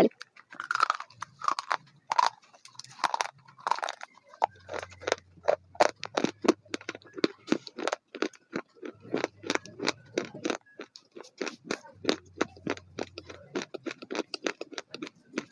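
Crunchy food being chewed: a quick run of sharp crunches, about four a second, steadiest from a few seconds in.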